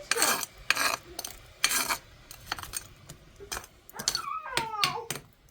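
Household clatter of dishes and utensils being handled: a run of sharp knocks and clinks. A brief high wavering cry, from a voice or an animal, comes a little after four seconds in.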